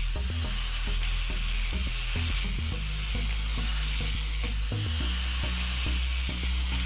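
Angle grinder with an abrasive disc grinding the steel edge of an axe head, a steady gritty hiss of the disc on metal. Background music with a low bass line plays underneath.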